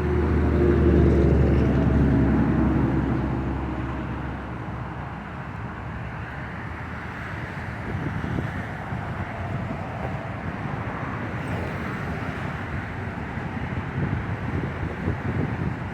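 A motor vehicle drives past, its engine note falling in pitch and fading over the first few seconds. After that comes steady, gusty wind noise.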